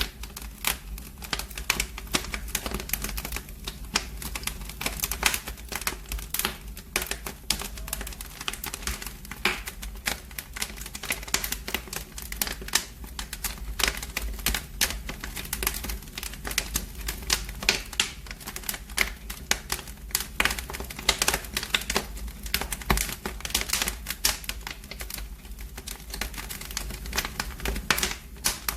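Wood fire crackling in a fireplace: dense, irregular sharp pops and snaps over a low steady rumble.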